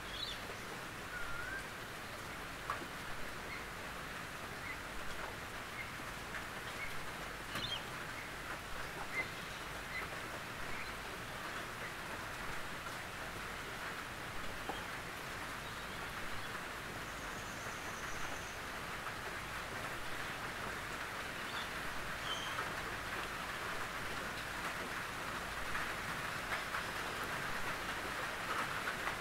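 Steady rain falling on a tin roof: an even patter with scattered louder individual drops, growing a little louder in the last few seconds.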